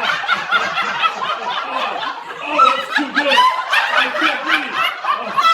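A woman laughing hard in quick, repeated chuckles after a joke.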